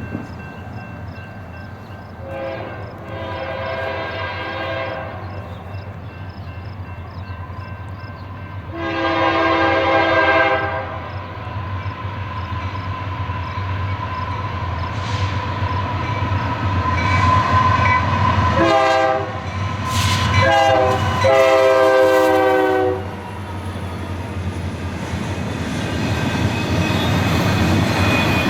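Approaching CSX diesel locomotive sounding its multi-chime air horn for a grade crossing: two long blasts, then shorter ones, ending with a long blast, over the steady rumble of the engine that grows louder as it nears.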